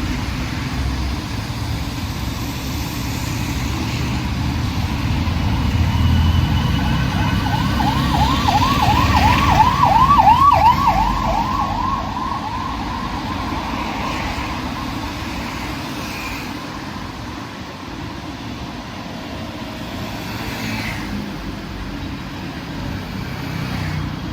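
Road traffic running steadily, with an emergency vehicle's fast yelping siren in the middle, sweeping up and down about three times a second, swelling to the loudest point and then fading away as it passes.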